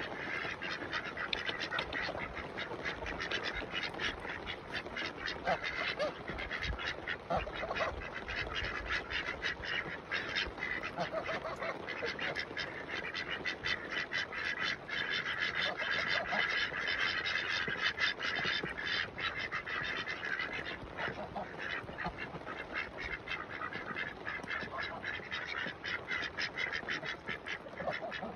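A flock of domestic ducks quacking continuously, many birds calling over each other, with geese honking among them.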